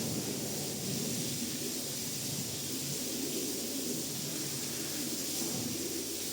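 Rug-washing equipment running with a steady rushing hiss and a low rumble underneath.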